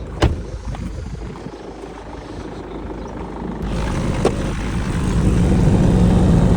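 A sharp click, then the BMW 523d's air-conditioning blower fan speeds up: a rush of air that grows louder from about halfway through, with a steady low hum (嗡嗡声). The hum comes only at the highest fan setting and is the abnormal noise of the blower.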